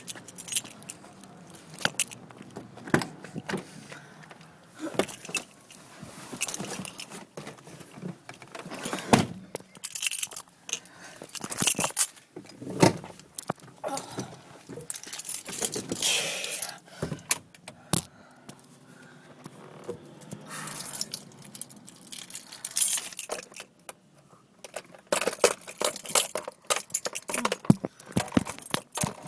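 A bunch of keys jangling, with irregular clicks and knocks of handling coming and going.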